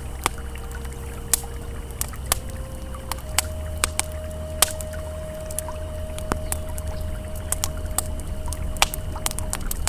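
Campfire crackling, with sharp irregular pops, over the steady rush of a flowing river. A faint held ambient tone runs underneath and steps in pitch a couple of times.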